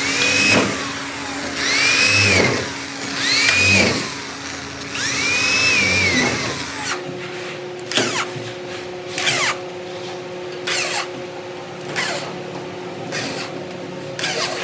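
A power tool run in short repeated bursts, its whine rising and falling about every two seconds. About halfway through the sound changes abruptly to a steady machine hum with sharp clicks roughly every one and a half seconds.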